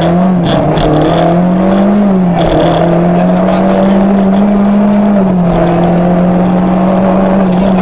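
Peugeot 106 N2 rally car's four-cylinder engine running under load, heard loud from inside the cabin. The engine note holds steady, drops briefly about two seconds in and again about five seconds in, then settles.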